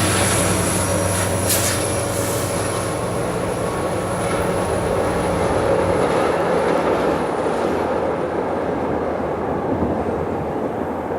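Alaska Railroad passenger train with EMD SD70MAC diesel-electric locomotives running by: a steady diesel engine drone over the rolling noise of the cars on the rails. A thin high whine slowly falls in pitch and fades, and the engine drone fades about two-thirds of the way through.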